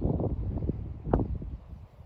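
Wind buffeting the microphone in low, uneven gusts, with rustling and one sharp snap about a second in.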